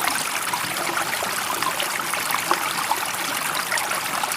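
Water running steadily, one continuous even rush with no breaks.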